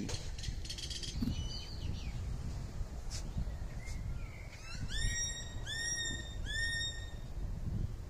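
A bird calling three times, less than a second apart, about five seconds in: short harsh notes that each sweep up in pitch and then level off. A low rumble of wind on the microphone runs underneath.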